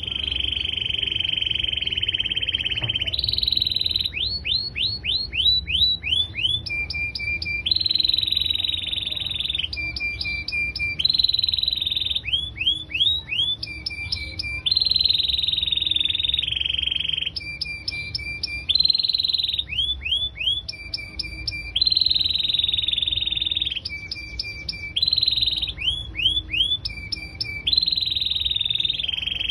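Domestic canary in full song: long trills held for a second or two alternate with fast runs of downward-sweeping notes and quick repeated two-part notes, the phrases cycling over and over without a break.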